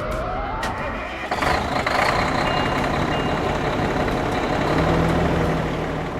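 Cartoon sound effect of a heavy vehicle engine running loudly, with two short high beeps about two and a half seconds in.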